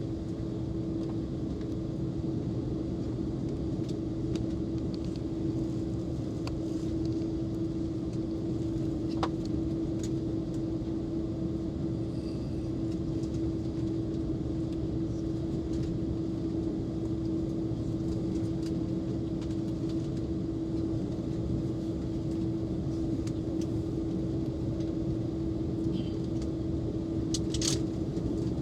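Steady cabin noise inside an Airbus A330 airliner: an even rumble with a constant hum from the engines and air systems, holding level throughout, with a few faint ticks.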